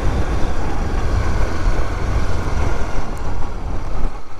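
Dual-sport motorcycle engine running steadily at low speed along a rough dirt track, with a rumble of wind and road noise on the microphone.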